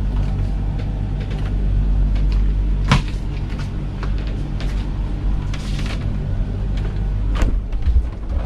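Motor boat's engine running with a steady low drone, with a few sharp knocks and clicks, one about three seconds in and another near the end.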